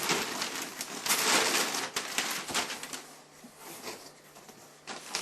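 Gift wrapping paper rustling, crinkling and tearing as a present is unwrapped, busiest in the first three seconds and then quieter.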